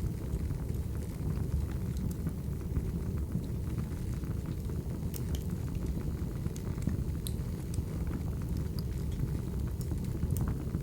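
Crackling wood fire: a steady low rumble of burning logs with scattered sharp crackles and pops.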